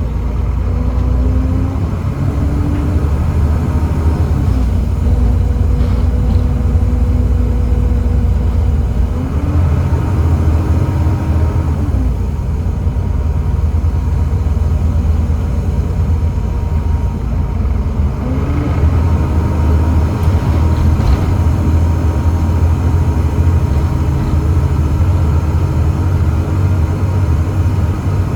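Volvo B7TL double-decker bus under way, its Volvo D7C diesel and ZF Ecomat automatic gearbox giving a heavy low rumble with whining tones whose pitch shifts several times as the box changes gear.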